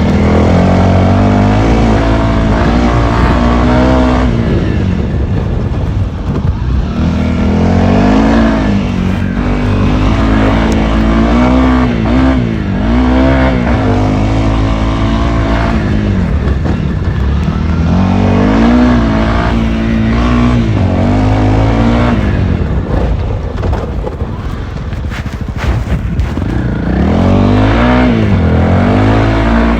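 Honda CRF300L's single-cylinder four-stroke engine, loud, revving up and down over and over as the throttle is opened and closed while the bike is ridden hard off-road.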